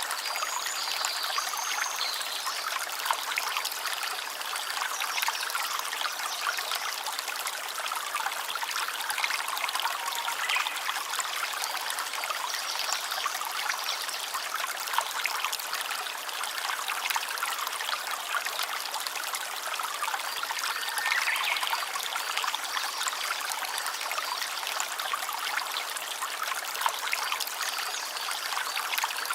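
Running water of a small stream trickling and babbling over stones, a steady, even flow.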